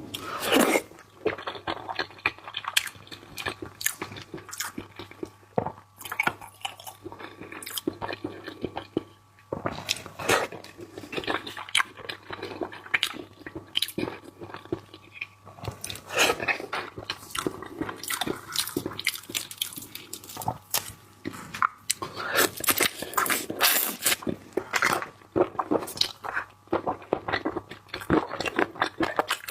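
Close-up mouth sounds of a person biting and chewing raw seafood: an irregular, dense run of sharp clicks and smacks.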